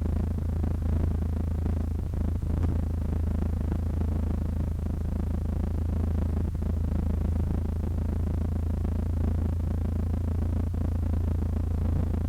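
Steady low drone of a Cessna 152's four-cylinder Lycoming O-235 engine and propeller at constant power, heard inside the cockpit.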